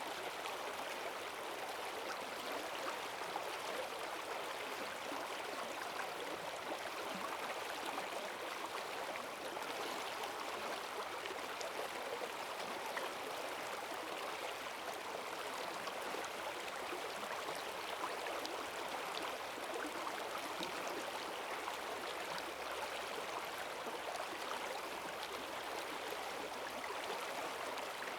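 Forest stream swollen with rainwater, rushing steadily over its bed with a strong current.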